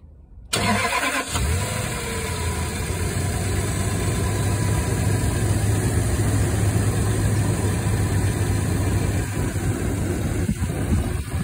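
Toyota Land Cruiser 200's V8 engine starting about half a second in, cranking briefly, then settling into a steady idle. The newly fitted fan clutch runs without any squeak.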